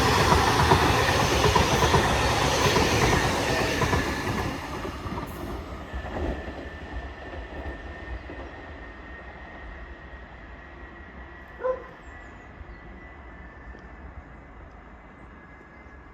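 Class 331 electric multiple unit pulling out of the station, its running and wheel noise loud for the first few seconds and then fading steadily as it draws away. A short, sharp sound stands out about twelve seconds in.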